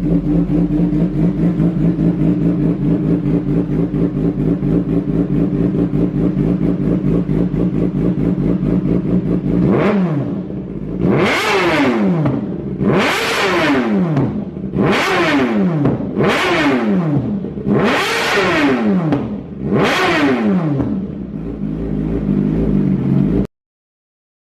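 Kawasaki ZX-10R inline-four sport bike engine idling steadily through its exhaust, then revved in a run of quick sharp blips, each rising and dropping back, about one every second and a half, before settling back to idle.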